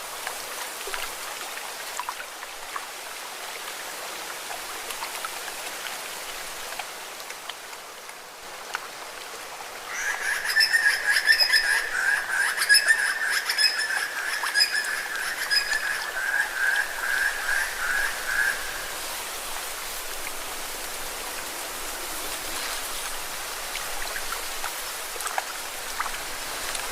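Lake water splashing and lapping against rocks, a steady wash of small splashes. About ten seconds in, an animal's rapid trilling call starts and runs for about nine seconds, louder than the water.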